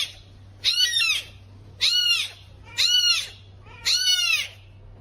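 An animal giving a short, high-pitched cry that rises and falls, repeated about once a second.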